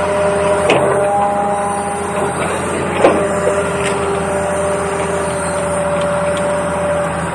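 Toy RC excavator running: a steady whine from its small electric motors and plastic gears, its pitch shifting slightly as the functions change, with two short knocks about one and three seconds in.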